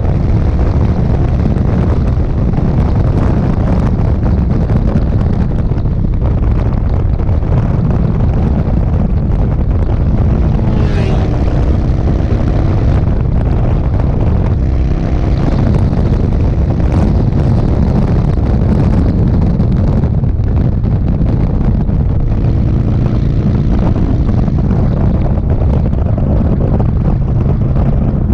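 Indian Sport Chief's V-twin motorcycle engine running steadily at road speed, with wind buffeting the microphone. The engine note shifts briefly about eleven seconds in.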